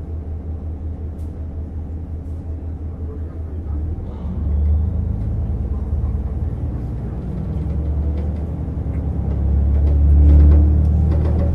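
Diesel railcar (JR Hokkaido KiHa 150) heard from inside the passenger cabin: a steady pulsing engine rumble, with the engine throttling up and growing louder about four seconds in and again near the end, and some rail clatter.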